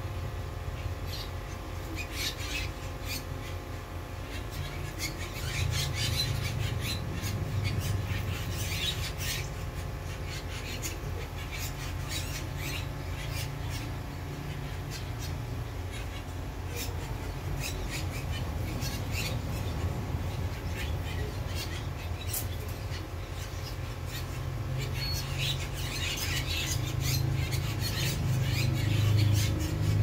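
A flock of birds calling in short, sharp chirps and squawks, scattered and overlapping, with busier bursts now and then. A steady low rumble runs underneath and swells near the end.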